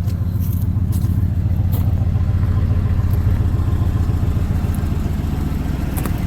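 OBS Ford F-150 pickup's engine idling with a steady low throb, plus a few faint clicks. The owner calls the idle pretty shaky and suspects a fuel problem: plugs or fuel injectors needing work.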